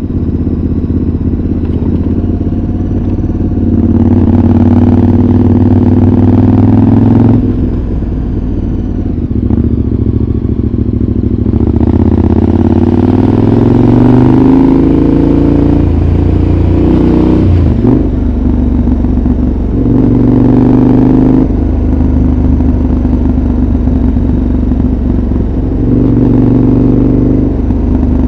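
2014 KTM 1190 Adventure's V-twin engine through a Giannelli exhaust with dB killer, heard onboard while riding. Engine speed climbs and then drops abruptly several times as the throttle opens and closes and the gears change.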